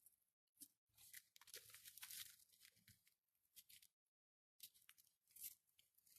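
Near silence with faint scattered clicks and scrapes: small carburettor parts being handled during disassembly.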